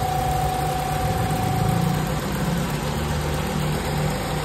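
Nissan GA13 carbureted 1.3-litre four-cylinder engine idling steadily, with a constant high whine running alongside it.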